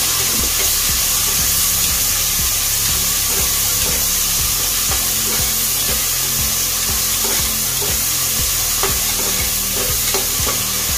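Chopped tomatoes and onions frying in oil in an aluminium pressure cooker, sizzling steadily, while a perforated metal ladle stirs them with irregular scrapes and taps against the pot.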